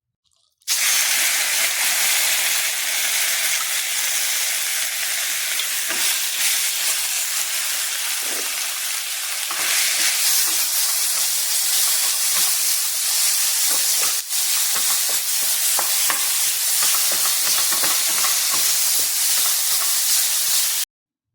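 Food frying in a hot pan, a steady loud sizzle with a few light clicks scattered through it. It starts suddenly about a second in and cuts off suddenly near the end.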